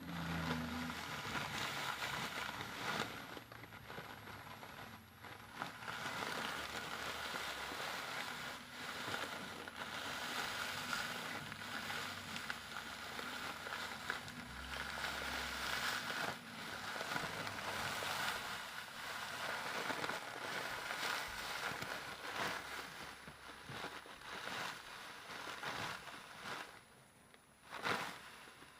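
Continuous crackling and rustling of something being handled and squeezed close to the microphone, with many small sharp clicks and a louder one near the end.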